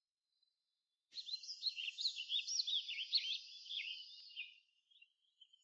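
A small songbird singing a fast, twittering run of high chirps and warbles. It starts suddenly about a second in and trails off near the end.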